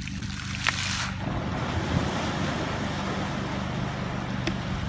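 A steady low engine hum under a rushing noise like wind on the microphone, with a short hiss about a second in.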